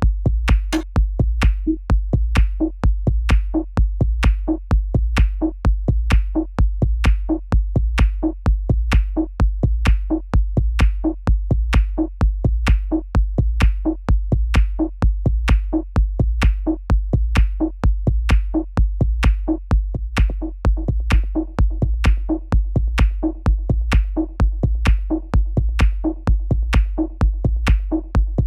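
Experimental techno loop made with Ableton Live 10's built-in instruments: a steady drum-machine beat with a heavy low kick and crisp high percussion hits repeating evenly. About two-thirds of the way through, a sustained synth tone comes in under the beat.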